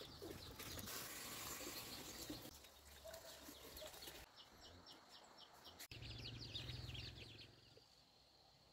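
Faint bird chirping in quick runs of short, high notes, about six a second, with one sharp click about six seconds in.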